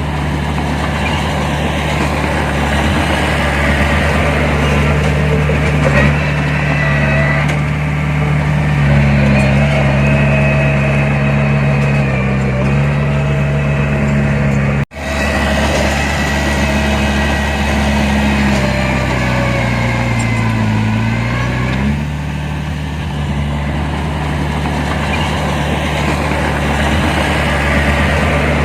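Diesel engine of heavy earthmoving machinery running steadily, its note rising and dipping with load twice. The sound cuts out for an instant about halfway through.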